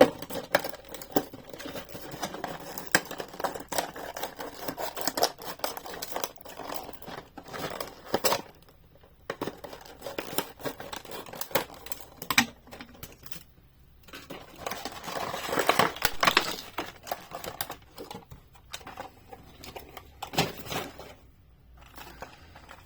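A diecast car's retail packaging being opened by hand: plastic blister and card crinkling, crackling and tearing in irregular clicks and rustles, busiest and loudest about two-thirds of the way through.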